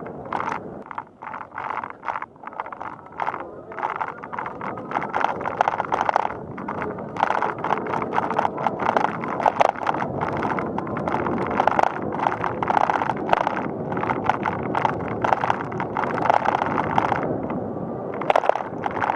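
A bicycle rolling along a paved path: tyre and road noise with a rapid, uneven rattling and clicking from the bike, busier from a few seconds in.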